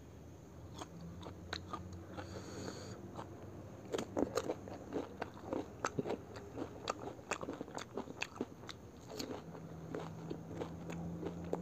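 Close-miked chewing of a crisp fried pani puri shell: many small, sharp crunches, denser and louder from about four seconds in.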